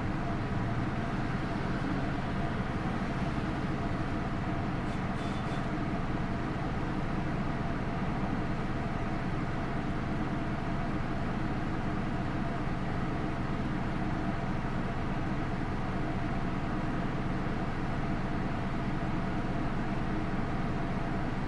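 Hino Rainbow II bus heard from inside while under way, its Isuzu 4HK1-TCH four-cylinder turbo diesel running at a steady speed with road and tyre noise. The pitch holds even throughout, with no gear change.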